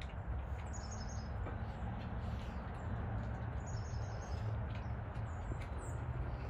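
A small bird chirping in short, high calls, about a second in and again about four seconds in, over a steady outdoor rumble.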